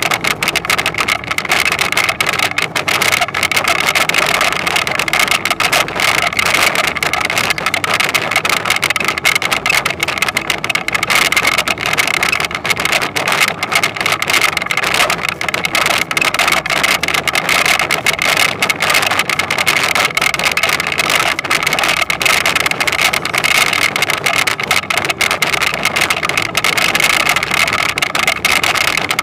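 Toyonoki potato harvesting machine running steadily, its engine noise mixed with a constant dense rattle.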